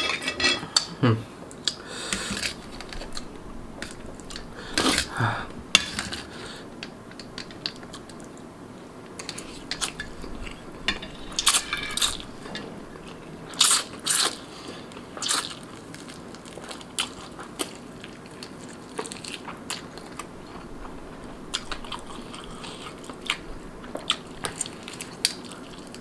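Close-miked eating sounds: chewing and biting into grilled marinated rabbit meat and instant noodles, with many short wet mouth clicks and smacks and a few louder bursts.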